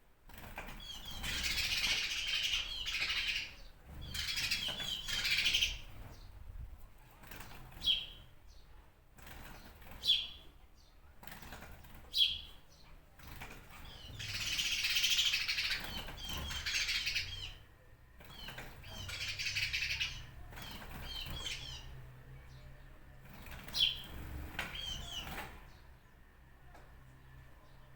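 Small birds chirping: several bursts of rapid, high twittering lasting a few seconds each, with single short calls in between.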